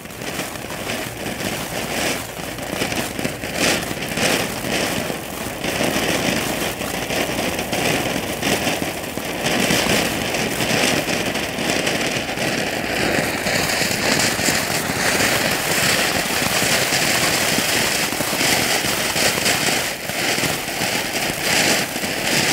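Weco chrysanthemum ('popping flower') ground fountain firework burning: a continuous hissing spray of sparks thick with crackling, growing fuller about ten seconds in.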